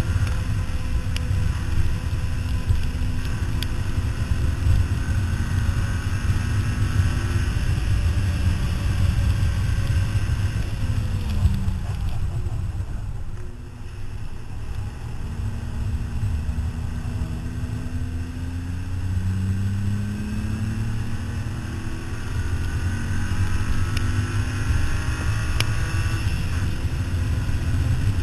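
Car engine running hard on a race track under wind and road noise, its revs climbing and dropping through the gears. The sound eases off briefly about halfway through, then builds again with long rising revs.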